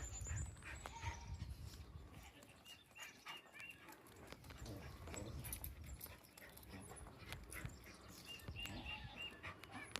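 Faint farmyard ambience with small birds chirping: short runs of quick, repeated high notes near the start and again near the end.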